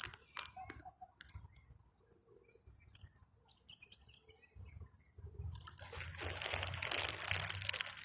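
Lay's potato chips crackling and crunching: a few faint scattered clicks at first, then a dense crackle from about five and a half seconds in.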